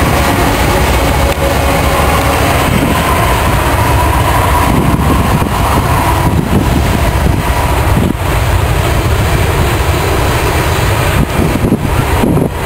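Freight train rolling past close by: a loud, steady rumble of diesel locomotives and cars, with wind buffeting the microphone.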